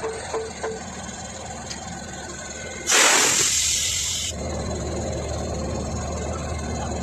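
A sudden loud hiss of compressed air from a train's air brake system as a locomotive is coupled. It bursts out about three seconds in and cuts off sharply after about a second and a half, leaving a lower, steady rush of air.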